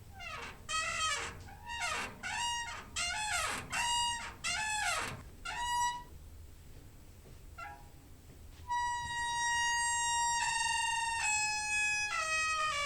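Squeaking door hinge: about seven short squeaks that bend up and down in pitch, then after a pause a long drawn-out creak that holds steady and steps down in pitch several times.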